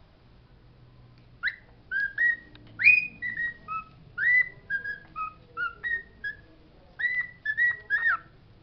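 Pet bird whistling a quick run of about twenty short, clear notes, some sliding briefly up or down, starting about a second and a half in and stopping near the end.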